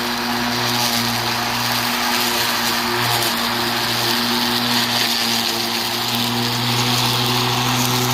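Hart 20V 16-inch cordless electric lawn mower running steadily under load, cutting tall, thick, damp grass: a steady motor hum over the rush of the blade through the grass.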